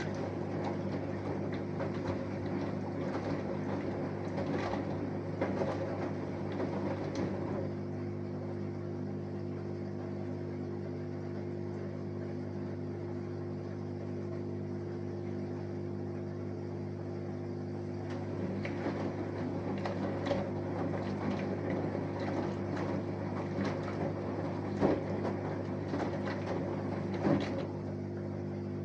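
Samsung Eco Bubble front-loading washing machine running a wash cycle: a steady hum from its inverter motor, with laundry and water churning in the turning drum for the first seven seconds or so and again from about two-thirds of the way in, and a few knocks near the end.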